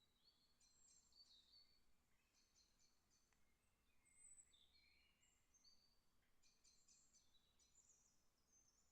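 Faint birdsong: small birds chirping and trilling in many short, high notes, over a faint steady hiss.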